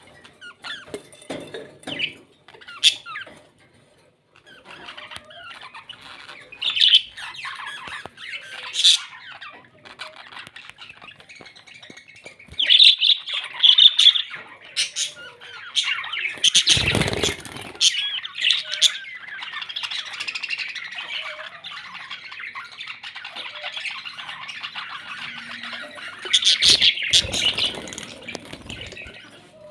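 Pet parrots chattering steadily, broken by sharp, loud squawks several times. A brief, louder noise that reaches low comes about halfway through.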